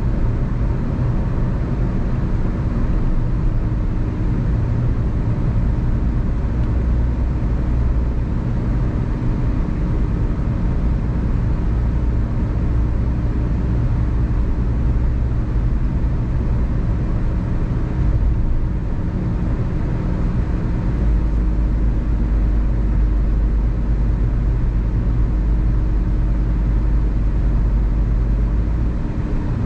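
Car driving along a road: steady rumble of engine and tyre noise, heaviest in the low end, with no sharp events.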